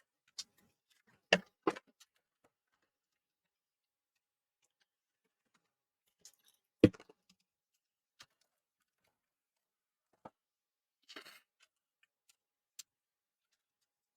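Scattered knocks and clicks of small hard objects being handled and put down: two close together early, the loudest about seven seconds in, and a short scrape near the end, with faint ticks between.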